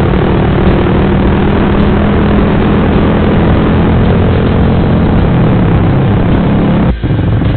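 Suzuki GSX-R150's single-cylinder engine running steadily through an aftermarket Proliner racing exhaust, a loud even drone with a short break near the end.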